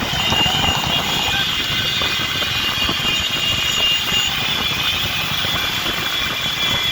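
Steady engine rumble with rushing noise and a faint, thin high whine on top, as from motor vehicles running.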